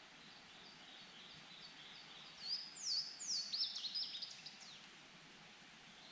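A songbird singing: a row of soft, evenly repeated high notes, then a run of louder, quicker notes that slide down in pitch, over a faint steady hiss.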